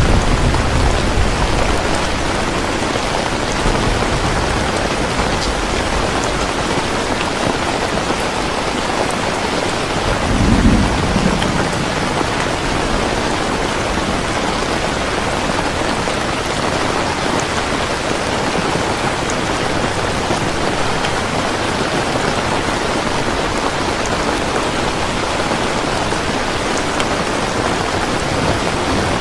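Heavy rain falling steadily, with thunder rumbling: a rumble dying away over the first few seconds, a short one about ten seconds in, and another starting near the end.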